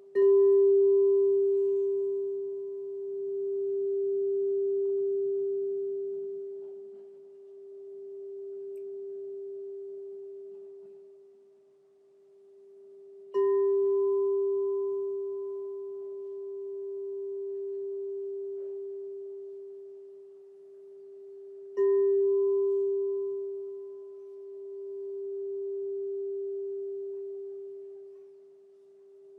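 Crystal singing bowl struck three times, each strike starting suddenly and then ringing on one steady pure tone with a fainter higher overtone. The ring slowly swells and fades in waves as it dies away.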